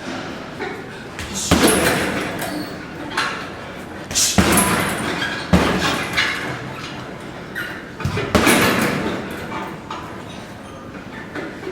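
Martial-arts strikes landing on a striking pad or heavy bag: four heavy thuds, the first about a second and a half in, with lighter hits between them.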